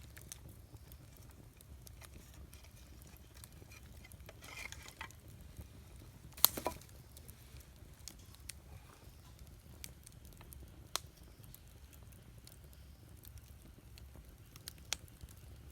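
Wood campfire crackling softly with scattered small pops, and one sharp pop about six and a half seconds in.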